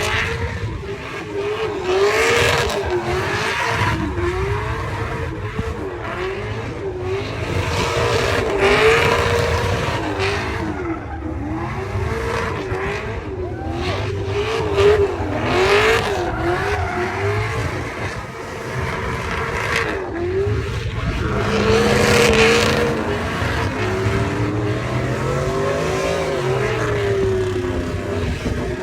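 Truck engine revving hard, its pitch swinging up and down again and again, with surges of tyre squeal: a truck doing a burnout or spinning donuts.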